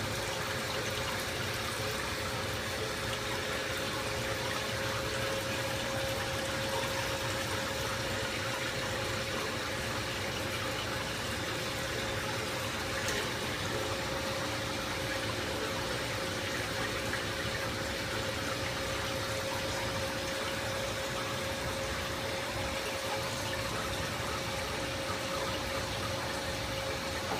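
Aquarium filter pump running steadily with a constant hum, water splashing and trickling back into the tank.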